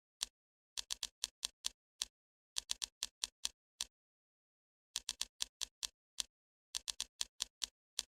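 Sharp, bright clicks in quick, irregular runs of about five to seven, with single clicks between the runs and dead silence in between, like a typing sound effect.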